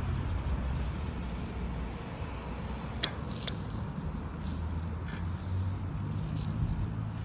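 Wind rumbling on the microphone with low road noise while riding a bike, and two sharp clicks about three seconds in.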